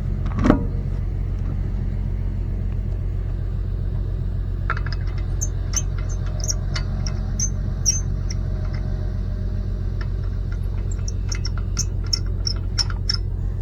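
A steady low mechanical hum, like an engine or motor running, with a sharp knock about half a second in and a scattering of short high-pitched clicks and squeaks through the second half, like metal parts or tools being worked.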